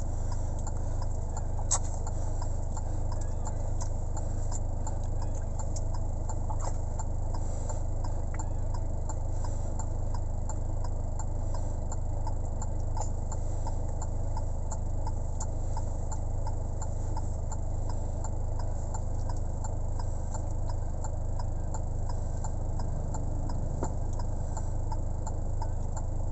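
Steady low hum with faint, scattered light ticks and clicks over it.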